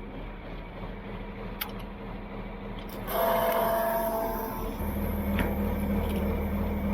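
Machinery running with a steady low hum and a sharp click; about three seconds in a louder whirring starts with a brief whine, and the low hum grows stronger and steadier a couple of seconds later.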